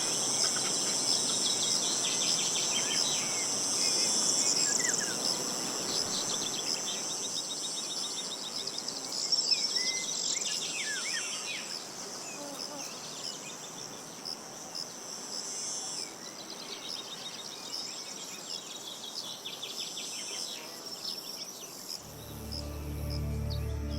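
A steady, high-pitched chorus of insects, with short bird chirps now and then over a faint rush of wind. Soft music comes in near the end.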